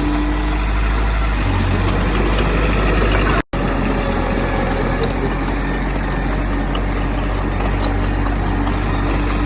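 Heavy earthmoving machinery's diesel engine running steadily, with a brief cut to silence about three and a half seconds in.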